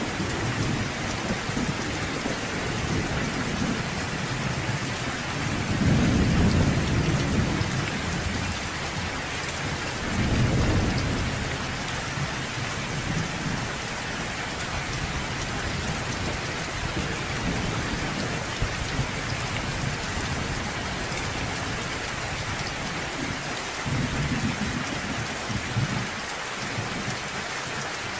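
Steady rain hissing down, with rolling rumbles of distant thunder swelling in and out underneath, the loudest about six and ten seconds in.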